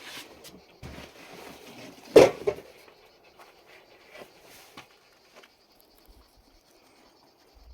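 Rustling and scattered knocks of things being handled, the loudest a sharp double knock about two seconds in, then only a few small ticks.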